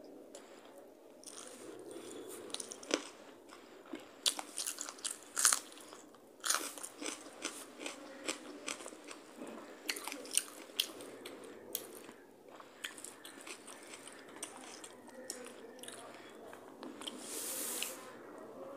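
Close-miked eating: chewing and crunching mouthfuls of rice mixed with crisp fried potato and bitter-gourd strips (aloo korola bhaja), with many short sharp clicks and crunches.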